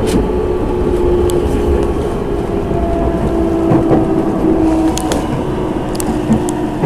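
Nankai electric train running, heard from inside the passenger car: a steady running rumble with a traction-motor hum that steps down in pitch as the train slows. A few sharp clicks come near the end.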